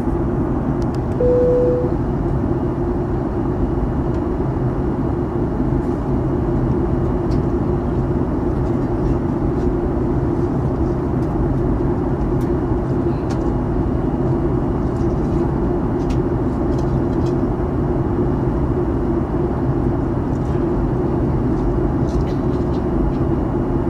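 Steady cabin noise of a Boeing 737-900ER airliner in flight on its descent: a dense, even rush of airflow over a low engine drone. A brief single tone, like a cabin chime, sounds about a second in.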